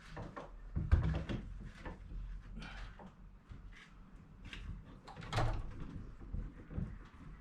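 Irregular knocks, bumps and short scrapes of casement window frames being grabbed and moved, loudest about a second in and again about five and a half seconds in.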